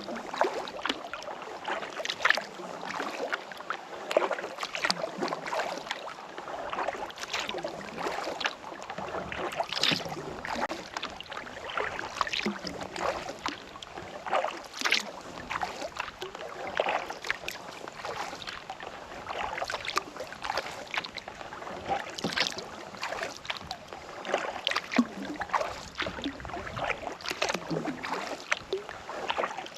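Kayak paddle strokes in calm lake water: the blade dipping and pulling, with many small irregular splashes and drips.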